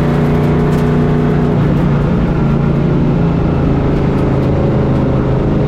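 Pro racing truck's engine heard from on board, running steadily at speed with only small shifts in pitch.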